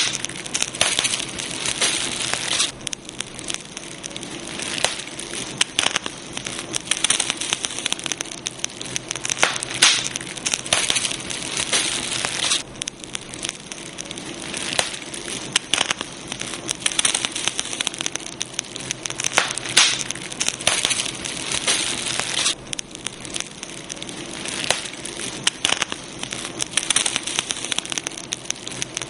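Campfire burning, wood crackling and popping irregularly over a steady hiss.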